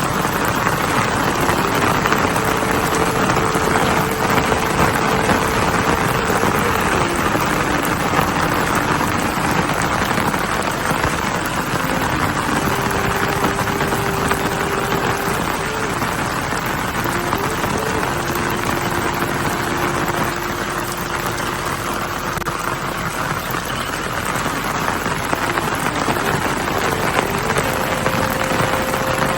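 Steady hiss of heavy rain falling. Under it, a faint held tone shifts pitch in steps every few seconds.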